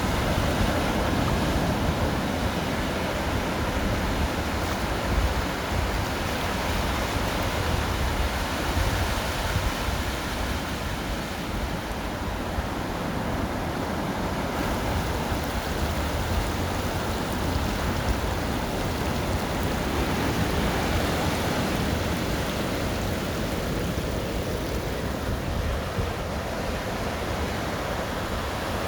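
Ocean surf washing steadily on the beach, mixed with wind.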